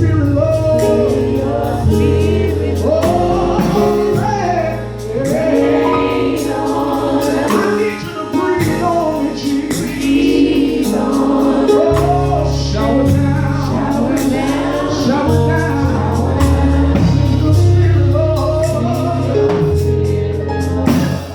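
Gospel singing with choir voices over an instrumental backing, with held bass notes beneath the wavering sung lines.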